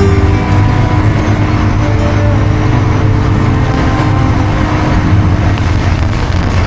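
A motorbike running steadily on the move, a loud continuous low rumble.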